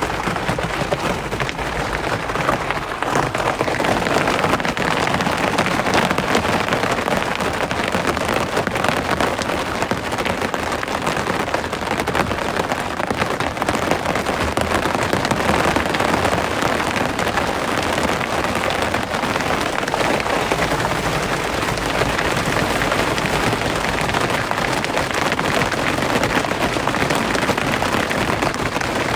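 Steady rain falling, a dense patter of countless drops.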